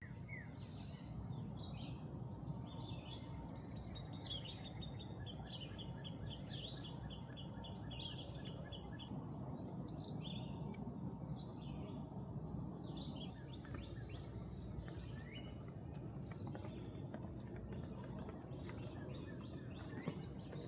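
Several birds chirping and calling over a steady low background hiss, with a run of quick repeated notes a few seconds in.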